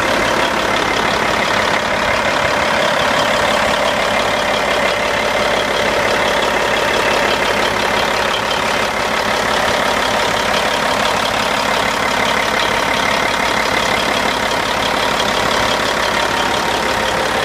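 Caterpillar 3406E inline-six diesel engine of a heavy dump truck idling steadily.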